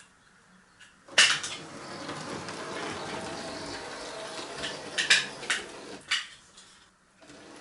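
00 gauge model locomotive, a converted Hornby 0-4-0 shunter, running along the track: a steady motor whirr and wheel rumble that starts with a click about a second in, with several sharp metallic clicks as the wheels cross rail joints and points, and it stops about six seconds in.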